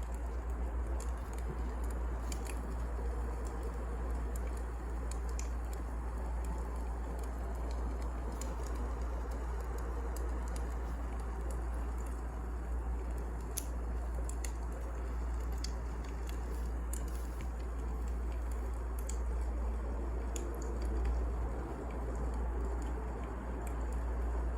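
Wood fire burning in a fireplace: a steady hiss and low rumble with scattered sharp crackles and pops from the burning logs.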